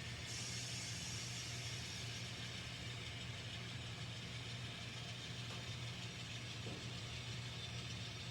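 Steady low diesel engine hum from the sound decoders of N scale model diesel locomotives, with a faint hiss joining in just after the start.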